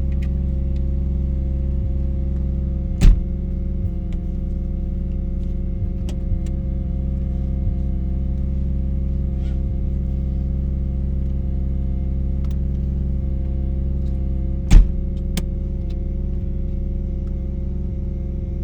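Mazda RX-7 rotary engine idling steadily through an RE Amemiya Dolphin Tail 90 Curl exhaust, heard from inside the cabin with the windows down. Two sharp clicks stand out, one about three seconds in and one near the end.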